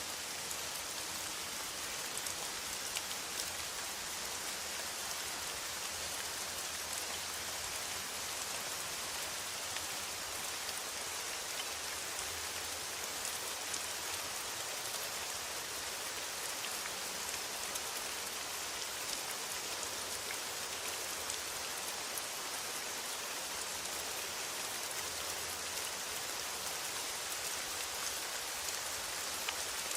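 Steady rain on a metal roof: an even hiss with small drop ticks scattered through it.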